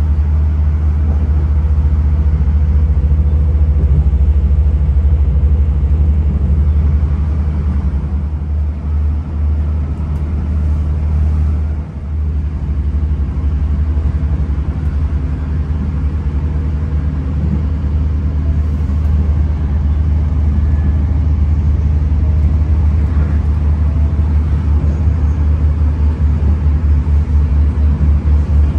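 Steady low rumble of a diesel commuter train running along, heard from inside the carriage. It dips briefly about twelve seconds in and takes on a faster pulsing near the end.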